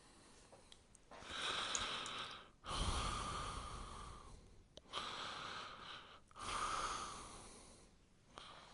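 Rainstick tipped over again and again: four cascades of falling beads, each starting suddenly and fading away over a second or two like a brief rain shower.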